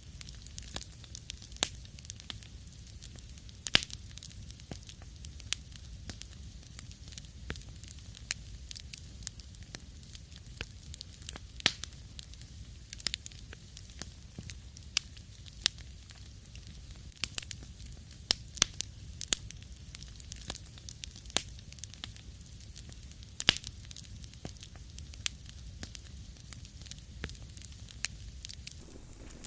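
Wood fire crackling in a fireplace: irregular sharp pops and snaps over a steady low rumble and soft hiss of the flames.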